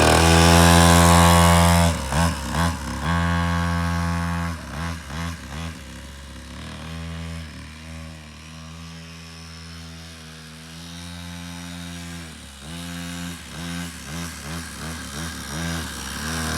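Small 49cc two-stroke mini motocross engine running. It is revved high for the first two seconds, then the throttle is blipped several times. It settles to a steadier idle in the middle and is blipped repeatedly again near the end.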